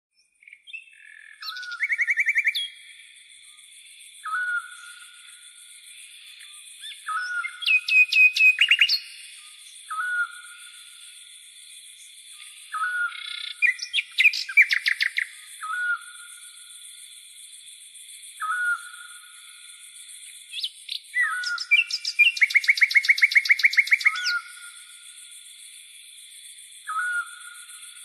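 Songbirds calling in the trees: one bird repeats a short call every two to three seconds while another gives bursts of rapid trilled notes, the longest about two seconds long near the end. A steady high-pitched hiss runs underneath.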